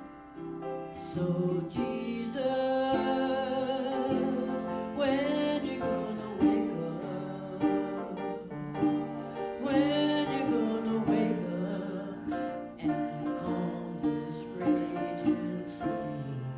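Worship song: a solo singer holding long notes with vibrato over instrumental accompaniment.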